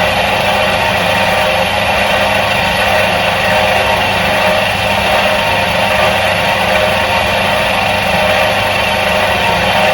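Electric motor of a 1977 Soviet washing machine running steadily, a continuous even hum and whir with no change in pitch or level.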